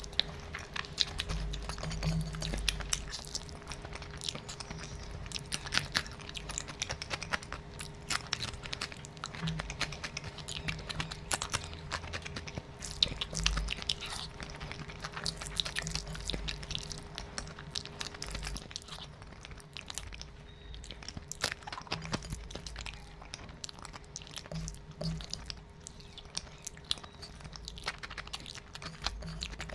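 Close-miked chewing of handfuls of biryani rice, with many small mouth clicks throughout over a faint steady hum.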